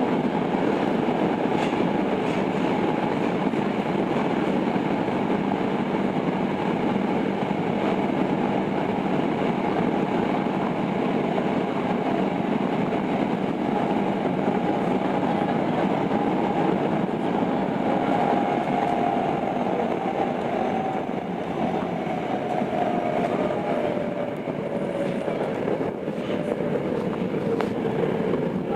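Running noise heard inside a Tokyo Metro 02 series subway car: a steady rumble of wheels on rail. About halfway through, the whine of the IGBT inverter traction motors comes in and falls steadily in pitch toward the end as the train slows.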